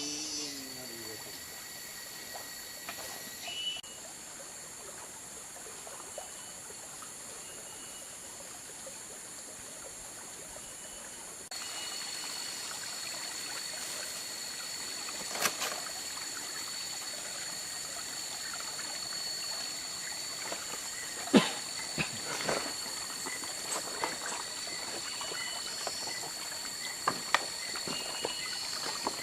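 Tropical rainforest ambience: water trickling in a stream under a steady high-pitched insect drone, with a few sharp knocks in the second half. The whole sound gets louder abruptly about a third of the way in.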